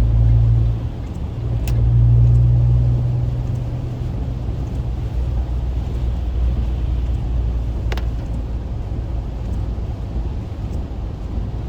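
Car driving on a rain-wet highway, heard from inside the cabin: steady low road and engine rumble with tyre noise, swelling over the first few seconds and then settling, with a couple of faint clicks.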